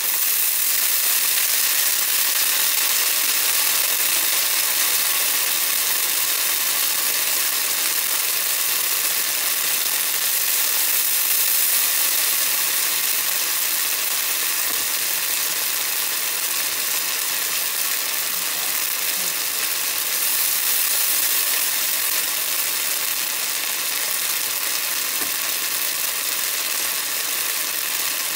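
Eggplant pieces frying in hot oil in a pan: a steady, dense sizzle with fine crackling, a little louder as the pour into the pan begins.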